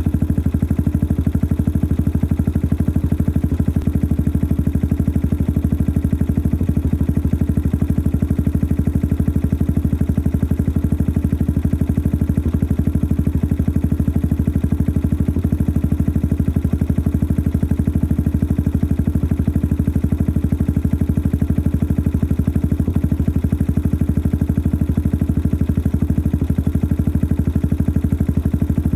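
Yamaha XT 600 43F's single-cylinder four-stroke engine idling steadily through a modified stock exhaust, an even, unchanging thumping beat. The engine is noisy at idle.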